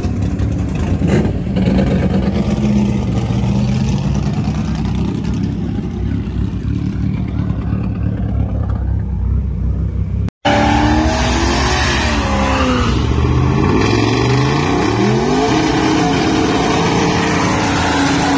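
Cars idling in the drag-strip staging lanes with a steady V8 drone. After a sudden cut about ten seconds in, the LSX V8 in a Ford Ranger revs up and down again and again for its burnout on the strip.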